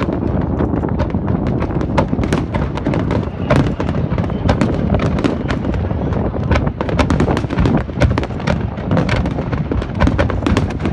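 Fireworks display going off without pause: a continuous low rumble of booms with many sharp crackles and cracks over it, coming thicker in the last few seconds.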